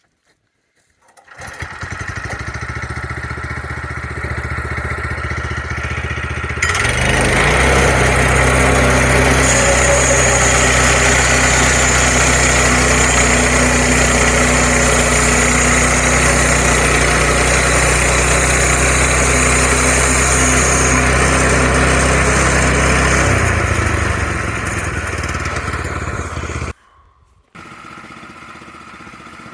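Portable sawmill's gas engine starting and idling, then throttled up about seven seconds in and running at full speed for around fifteen seconds before easing off and cutting off abruptly. After a short gap a quieter steady engine sound continues.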